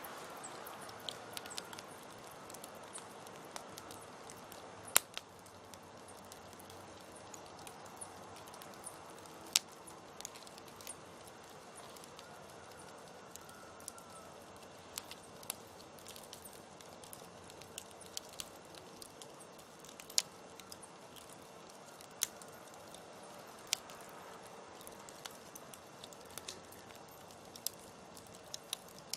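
Campfire crackling: burning wood giving irregular sharp pops and snaps over a soft steady hiss, the loudest pops about five, ten and twenty seconds in.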